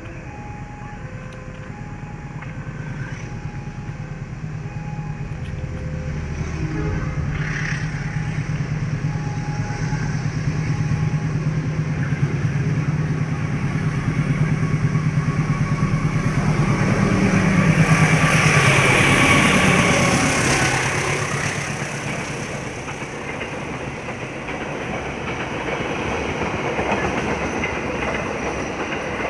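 Passenger train hauled by a CC 203 diesel-electric locomotive approaching and passing at speed: the locomotive's engine hum grows louder, peaks about eighteen seconds in with its pitch dropping as it goes by, then the coaches' wheels rumble and clatter over the rail joints. A faint two-note alternating signal sounds during the first ten seconds.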